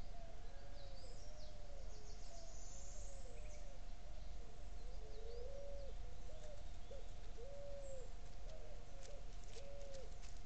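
Forest birds calling with short, low, arched hooting notes repeated over and over and overlapping, plus a few faint high chirps. A steady thin electronic whine and a low hum from the trail camera sit underneath.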